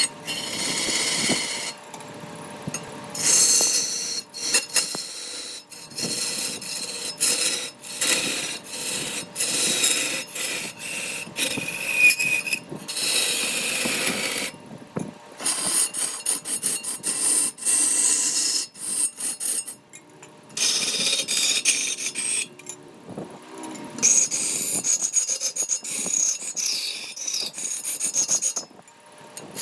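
A tool scraping and rasping wood in repeated strokes, in bursts broken by short pauses.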